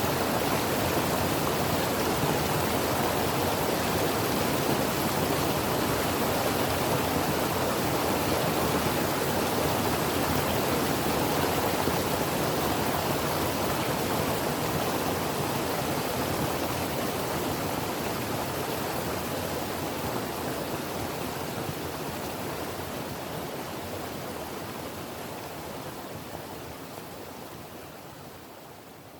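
A creek's water flowing steadily, fading out gradually over the last several seconds.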